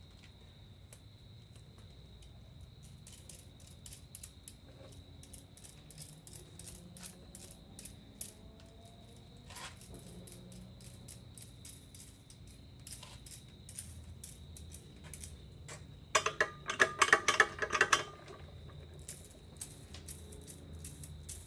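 Metal fittings and tools being handled: scattered clicks and knocks, then a louder metallic clinking and jangling for about two seconds, a little past three-quarters of the way through.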